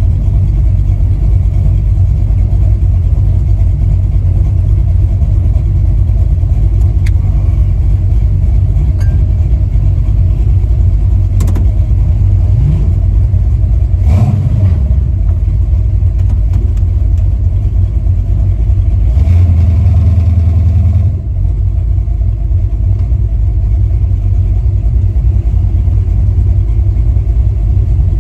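V8 engine of a Chevy LUV pickup running while the truck is driven, a loud low rumble. About halfway the revs rise briefly, and later the engine note swells for a couple of seconds before dropping off suddenly, as if the throttle is lifted.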